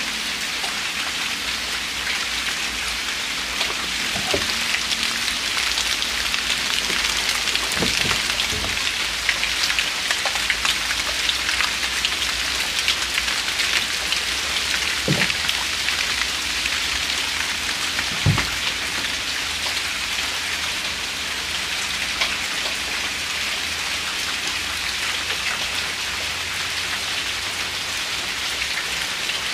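Steady rain falling, an even hiss throughout, with a few short heavier thuds scattered through it.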